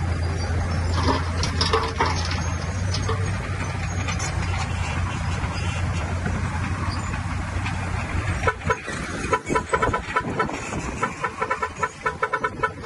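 A heavy diesel earthmoving machine runs with a steady low drone. From about eight seconds in, a quick series of sharp clattering knocks comes in, several a second.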